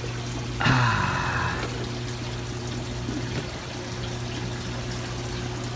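Aquarium water trickling over a steady low pump hum, with a louder pouring splash of water starting about half a second in and lasting about a second.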